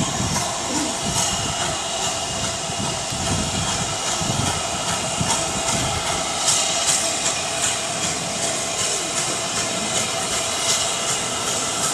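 Steam-hauled train on the move, with a steady hiss of steam and a run of irregular clanks and clicks from the train.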